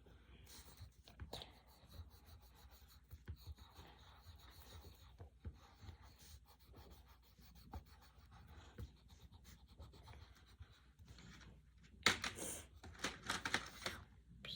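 Coloured pencil scratching and rubbing on paper in short drawing and shading strokes, with a louder run of rapid strokes near the end.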